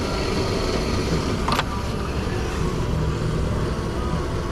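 Gasoline running from a hand-held pump nozzle into a motorcycle fuel tank: a steady rush, with one sharp click about a second and a half in.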